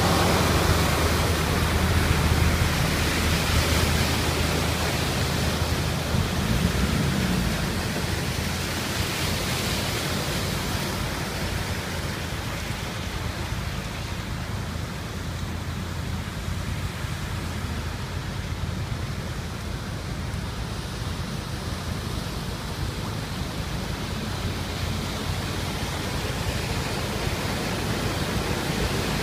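Steady rushing noise of rain and running water, with a low engine hum that fades over the first six seconds.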